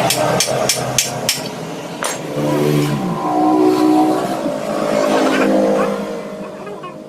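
Hammer striking the motorcycle engine about four times a second during the first second or so, as the crankcase halves are worked apart. Then a passing vehicle's engine is heard for a few seconds, its pitch rising and falling before it fades.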